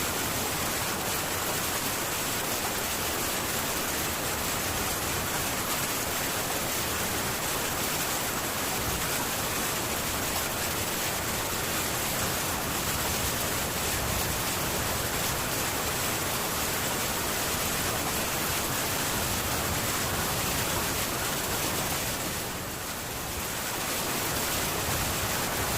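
Heavy rain falling steadily on a metal tin roof, an even hiss without thunder, easing slightly for a moment near the end.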